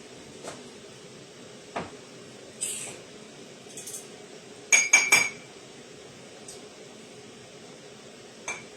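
Kitchen dishes and utensils being handled: a few scattered knocks and brushing sounds, then a quick cluster of sharp, ringing clinks about five seconds in.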